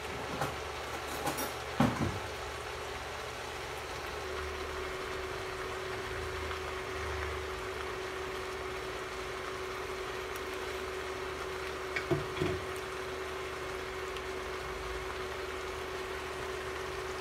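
Cabbage and vegetables frying in a pan, a steady sizzle, with a few sharp knocks near the start and again about twelve seconds in.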